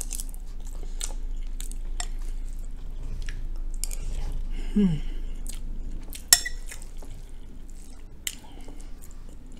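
Close-up chewing of soft cooked cabbage and rice, with many small wet mouth clicks and a brief hum about halfway. A little past halfway comes a single sharp clink of a metal spoon against a glass bowl.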